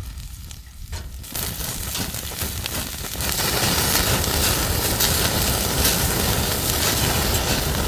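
Fatty beef large intestine (daechang) sizzling and spitting on a hot grill, the hiss swelling about a second in and growing louder again about three seconds in.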